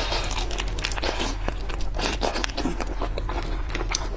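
Close-miked crackling and crunching of seafood shells being handled and bitten, a dense run of small sharp clicks.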